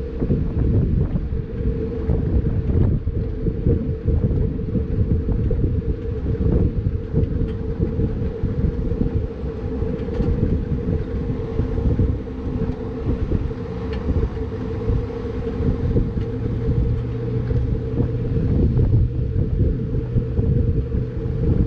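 Turbocharged 1999 Mazda Miata driving at speed, heard from inside the car: a steady engine drone mixed with wind and road rumble. A lower steady hum joins about three-quarters of the way through.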